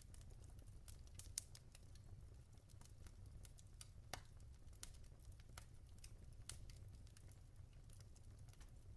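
Wood logs burning in a fireplace, faintly crackling with irregular sharp pops over a low steady rumble; the sharpest pops come about a second and a half in and about four seconds in.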